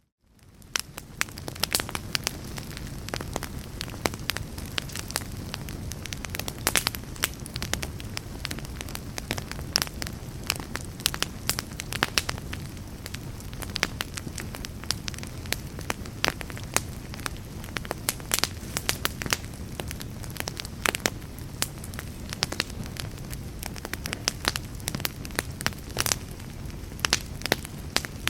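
Log fire crackling, with frequent sharp pops and snaps over a steady low rumble of the flames. It fades in from near silence over the first second or so.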